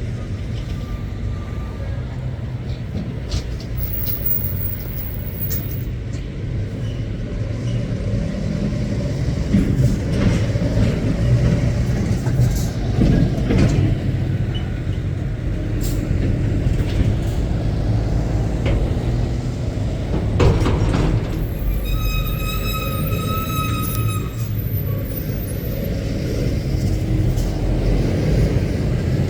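Heavy goods lorries moving through with a continuous low diesel engine rumble and scattered clicks and hisses. About 21 seconds in, a sharp hiss is followed by a high steady tone with overtones that lasts about three seconds.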